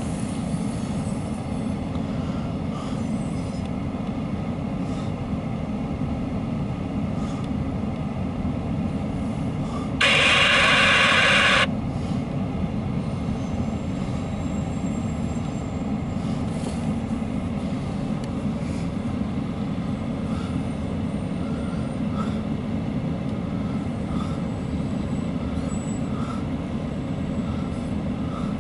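Empty autorack freight cars rolling steadily past: a low rumble of wheels on the rails. About ten seconds in, a loud hiss lasts under two seconds.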